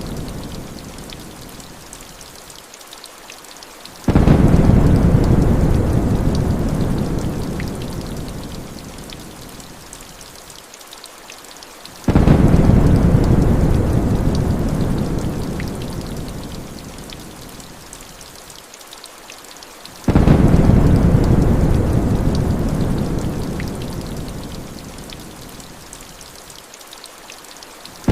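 Heavy rain hissing steadily with scattered drop ticks, under rolling thunder. A deep rumble comes in abruptly three times, evenly about eight seconds apart, and fades away over several seconds each time.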